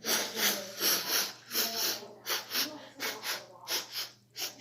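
A person's voice making short, breathy vocal noises, about two a second, rather than words.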